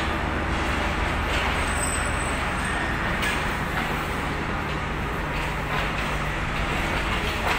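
Millat Express passenger train departing, its coaches rolling along the track with a steady rumble of wheels on rails and a constant low hum.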